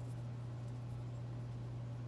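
A steady low hum with a few faint, light ticks.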